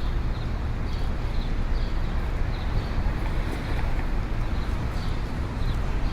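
Busy city street ambience: a steady rumble of traffic under a general din of crowd and street noise, with a light ticking about twice a second.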